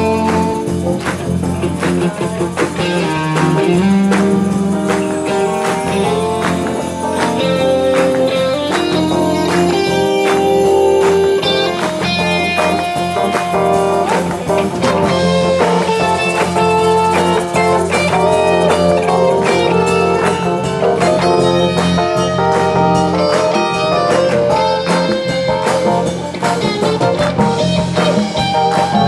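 Big band playing live: a blues-style number with guitar over a steady drum beat.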